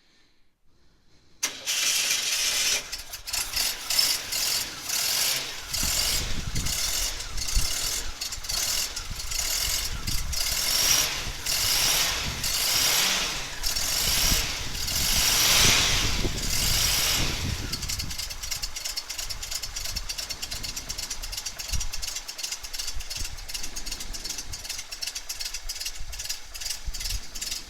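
An engine starting: after a moment of near quiet it catches suddenly and runs with a rapid rattling pulse, heavier and deeper for a while, then settles to a lighter, fast, even ticking run about two-thirds of the way through.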